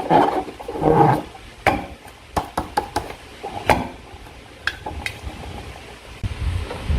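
Slime being handled and squished: two wet squelches near the start, then a scatter of sharp sticky clicks and pops, with a low rumble coming in near the end.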